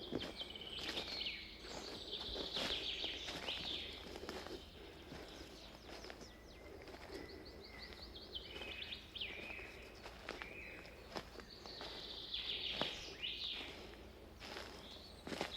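Songbirds singing in several phrases of quick trills and rapid note series, over footsteps crunching along a forest path.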